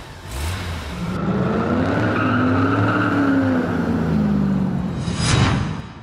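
Intro sound effect of a car engine revving, its pitch rising and then falling, with a whoosh about five seconds in before it fades out.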